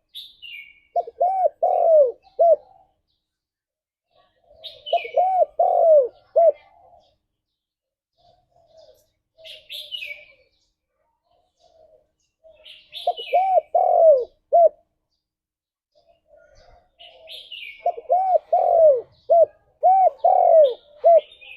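Spotted doves cooing: four phrases, each of several low, curved coos, with short high-pitched chirps of small birds between and over them.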